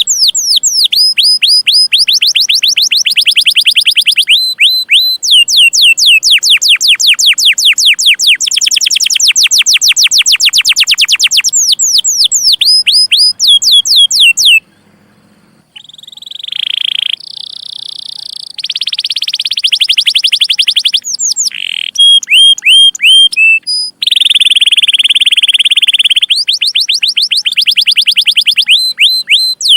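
Domestic canary singing long runs of rapid, repeated falling chirps, breaking off briefly about halfway through, then rolling trills before the fast chirps start again.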